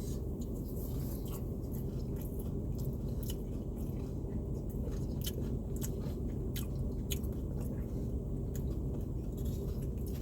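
A person chewing a bite of breaded fried chicken tender close to the microphone, with many scattered small wet mouth clicks. A steady low hum runs underneath.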